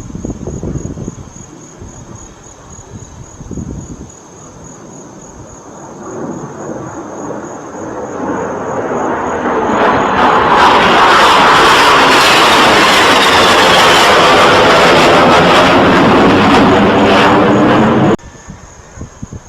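Low-flying aircraft passing close overhead: its engine noise swells over several seconds to a loud, steady rush with a sweeping shift in tone, then cuts off abruptly near the end.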